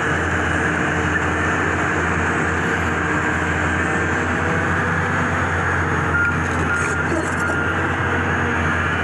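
Heavy diesel machinery (an excavator and dump trucks) running steadily with a constant low engine hum. After about six seconds a reversing alarm gives a few short high beeps.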